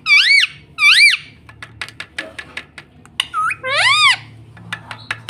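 Pet ring-necked parrot giving three loud squawks, each rising then falling in pitch: two in quick succession at the start and a third about four seconds in. A run of short, sharp clicks falls between them.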